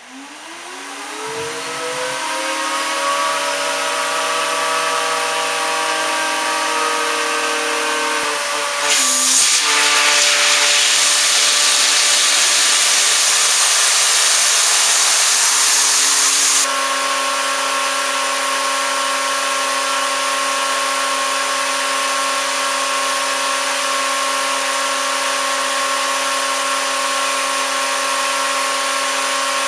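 Vacuum cleaner switched on, its motor spinning up to speed over the first few seconds and then running steadily with a whining hum. About nine seconds in a louder rushing of air joins it, and this cuts off suddenly a few seconds later, leaving the vacuum running with a steadier tone.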